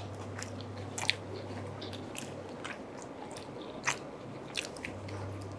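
Close-up biting and chewing of a toasted Italian cheese panini: wet mouth sounds with a scattering of short crisp crunches and clicks.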